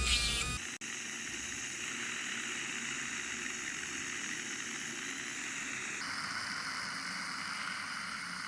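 A steady hiss that changes in tone about six seconds in. Music ends within the first second.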